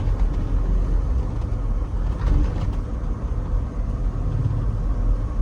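Mini dump truck's diesel engine running with steady low road rumble while driving.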